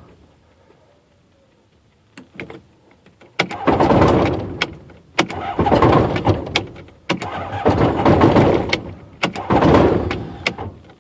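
Electric starter cranking a Rotax aircraft engine in four short bursts, each a second or two long and fading off, with a few clicks before the first; the engine never catches. The prop stalls while the starter keeps spinning, which the owner puts down to a slipping starter clutch.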